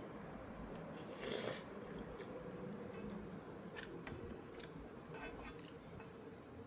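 Someone eating ramen with a plastic spoon: quiet chewing and scattered light clicks, with a brief louder noisy sound about a second in.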